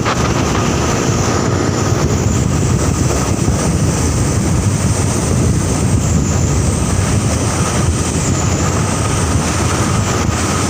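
Truck running steadily: a loud, continuous low rumble mixed with road and wind noise.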